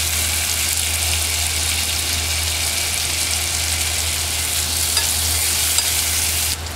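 Snap peas sizzling in butter and olive oil in a frying pan: a steady hiss with a few small ticks, while chopsticks turn the pods. The sizzle cuts off suddenly near the end.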